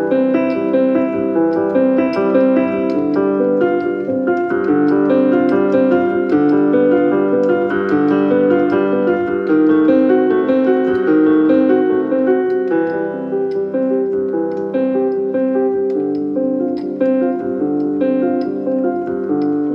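Background piano music: a steady run of quick notes with no voice.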